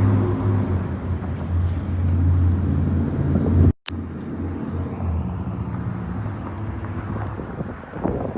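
Porsche 911 Carrera 4S flat-six engine running steadily. It is cut off abruptly just under four seconds in by a momentary dropout and click, then resumes a little quieter.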